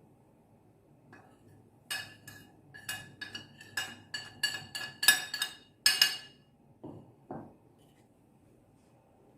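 Kitchenware clinking: about a dozen sharp, ringing strikes in quick succession over some four seconds, then two duller knocks.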